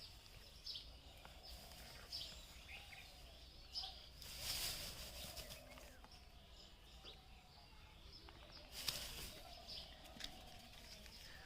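Faint outdoor ambience with small birds chirping now and then, plus a couple of short bursts of noise, one about four seconds in and another about nine seconds in.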